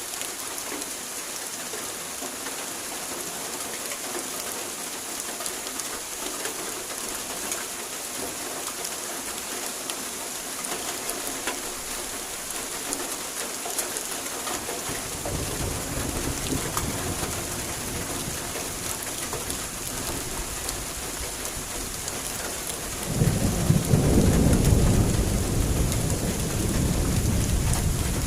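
Heavy rain falling steadily in a thunderstorm. About halfway a low rumble of thunder comes in, and a louder rolling peal of thunder builds from about three-quarters of the way through and fades near the end.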